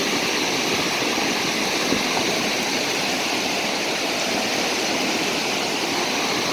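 Steady rushing noise of the sea, small waves breaking and washing on the beach.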